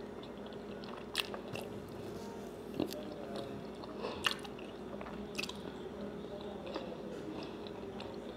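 Close-up chewing of breaded country fried steak with gravy, the mouth working wet and with a little crunch, and four sharp mouth clicks spread through it, over a steady low hum.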